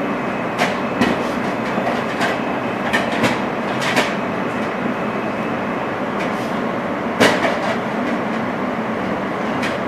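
Interior of an R160 New York City subway car in motion: a steady rumble with irregular sharp clicks and knocks from the wheels running over the track.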